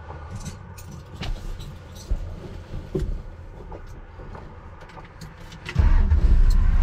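Ford 351 Windsor V8 with a 750 CFM Race Demon carburetor idling with a low rumble, heard from inside the car, with a few small clicks and knocks. About six seconds in the engine gets much louder as the car pulls away under throttle.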